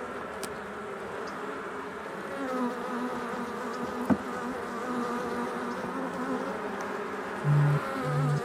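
Honeybees buzzing around an opened hive during a frame inspection: a dense, steady hum of many bees in flight. A louder low buzz comes twice near the end, and there is one sharp tick about halfway through.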